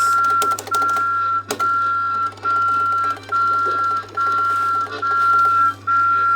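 Coin-operated Thomas the Tank Engine kiddie ride's electronic beeper sounding a single high beep over and over, about eight even beeps, with one sharp click about a second and a half in.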